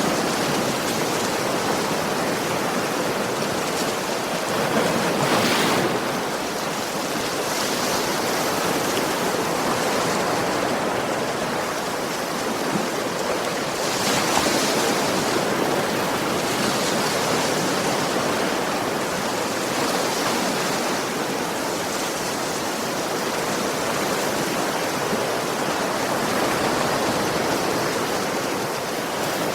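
Ocean surf: a continuous rush of waves breaking and washing on a beach, swelling louder now and then as a bigger wave comes in.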